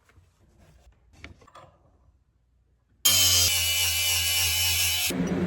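Faint clicks of the antler piece being handled, then a power tool starts abruptly about three seconds in and runs steadily. Its sound turns rougher near the end, as if it has started working the antler.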